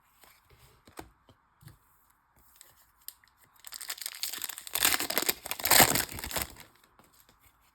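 Foil trading-card pack wrapper being torn open and crinkled: a dense rustling tear lasting about three seconds, starting about three and a half seconds in. Before and after it come light scattered clicks of cards being handled.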